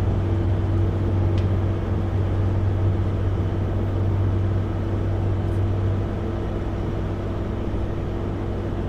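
Kenworth W900L semi truck's diesel engine running steadily in a lower gear on a long downgrade with the engine brake holding it, heard from inside the cab as a steady low drone with a constant tone above it. The low rumble eases slightly about six seconds in.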